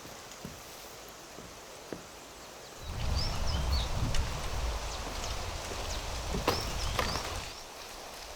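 Wind buffeting the microphone, with a low rumble that sets in about three seconds in, under a few short bird chirps and some scattered clicks.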